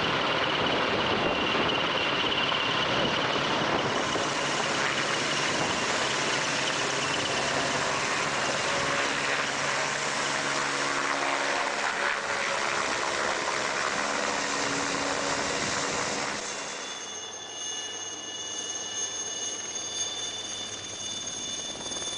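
Helicopter turbine and rotor noise, loud and steady; about three-quarters of the way through it drops and a high turbine whine of several steady tones is left.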